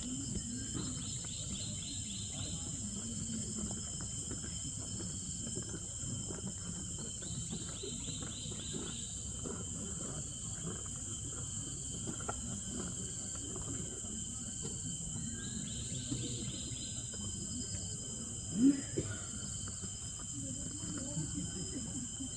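Rainforest insects droning steadily at a high pitch, with a pulsed trill that comes back about every seven seconds. A low rumble and murmur run underneath, and a short, loud sound rises in pitch near the end.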